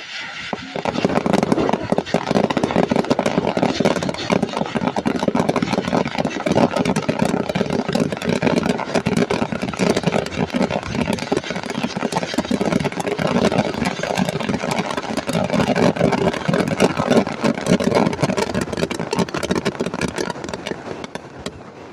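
Fireworks show: a dense, unbroken barrage of bangs and crackling that starts about a second in and fades near the end.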